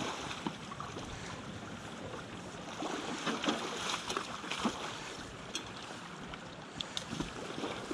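River water running steadily, with a few faint clicks and knocks scattered through it.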